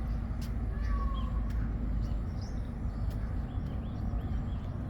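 Birds calling over a steady low outdoor rumble: a falling whistle about a second in, then a run of short, quick chirps.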